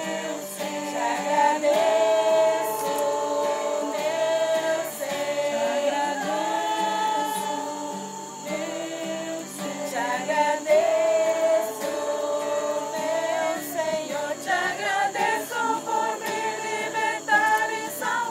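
A group of voices singing a Christian hymn together, a cappella.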